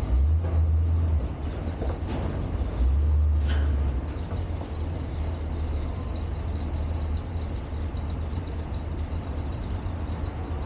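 A vehicle engine running with a low rumble, louder for the first few seconds and then steadier, with a few sharp knocks in the first four seconds.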